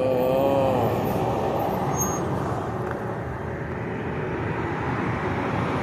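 Road-riding noise from a mini bike: a small engine running under steady wind and road rumble, opening with a short wavering tone in the first second.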